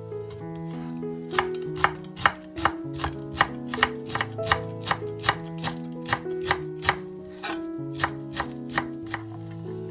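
Knife chopping on a cutting board in quick, even strokes, about two to three a second, starting just over a second in and thinning out near the end, over background music.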